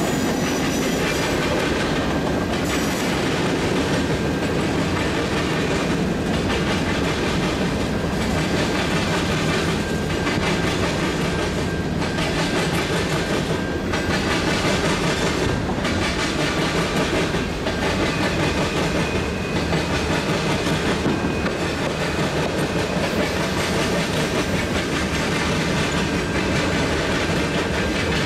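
Freight train cars rolling past steadily, with the wheels clicking over rail joints every second or two in a clickety-clack.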